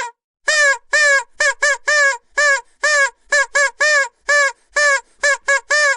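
Vuvuzela blown in a rapid series of short blasts, about two or three a second, each one a brassy tone that bends slightly up and then down in pitch.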